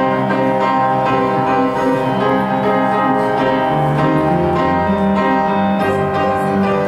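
Piano introduction to a musical-theatre song, sustained chords beginning suddenly and played at an even level.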